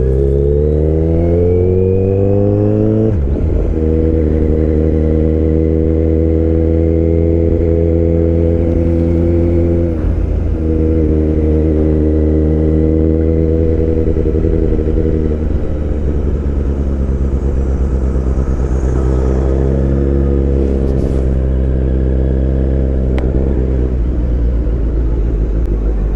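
2023 Kawasaki Z900's inline-four engine under way: it revs up for about three seconds, shifts up, then runs at a steady pitch, with small changes in engine speed about ten and fifteen seconds in.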